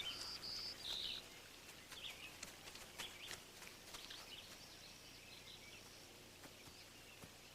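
Faint bird calls: a few short, high, clear chirps in the first second, then scattered thinner chirps and ticks that fade away.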